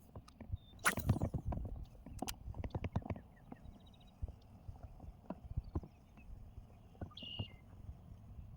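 Irregular hollow knocks and clatter of fishing gear against a plastic kayak hull, with a brief rushing swish about a second in. A short high bird chirp comes near the end.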